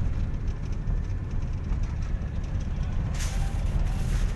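Car driving: a steady low rumble of engine and road noise, with a brief hiss about three seconds in.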